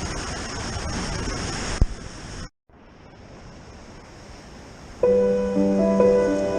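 Sea surf and rushing water on the rocks, with scattered clicks and a single knock, cuts off abruptly. After a quieter stretch of surf, soft background music with piano-like notes begins near the end.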